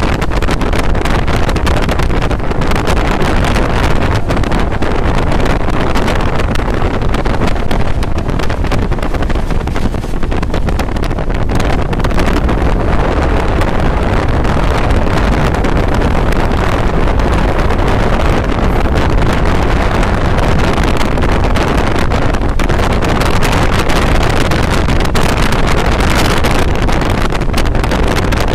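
Passenger express train running at speed, heard at an open window: a loud, steady rush of wind and running noise, with wind buffeting the microphone.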